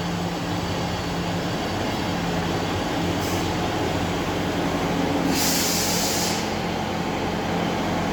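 Class 158 diesel multiple unit running steadily on its underfloor diesel engines, with a short hiss of air a little past five seconds in.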